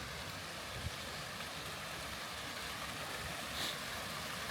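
Steady rushing of flowing stream water, with a low rumble underneath and a faint knock about a second in.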